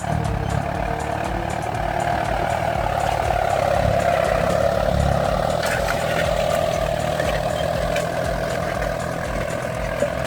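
Old Kubota tractor's engine running steadily, with a regular low firing beat and a constant drone.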